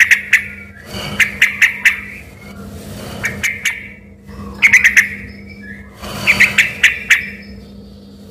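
Yellow-vented bulbul (trucukan) singing in a run of short, loud phrases, each a quick burst of sharp notes, repeated about every second to second and a half.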